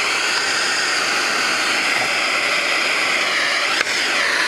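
Vacuum cleaner running steadily with a high whine; near the end a click, and the whine dips in pitch for a moment.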